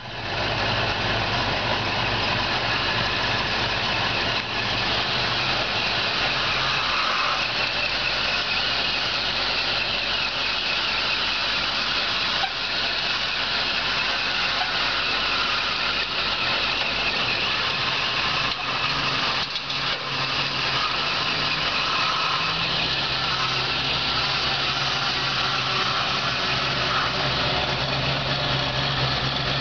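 1971 Ford Mustang's engine running at low speed as the car creeps and turns, a steady low engine note under a constant hiss; the note steps up a little about three-quarters of the way through.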